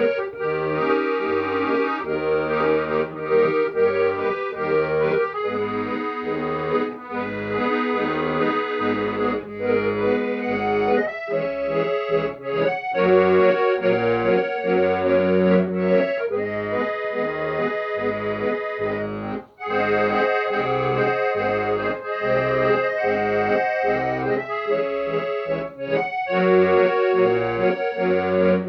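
Accordion playing an instrumental melody over changing bass notes, with a brief break about two-thirds of the way through.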